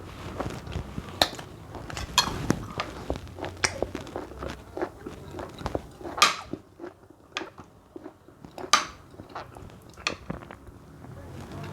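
Close-miked eating of soft cooked plantain and porridge: chewing and wet mouth smacks, with irregular sharp clicks.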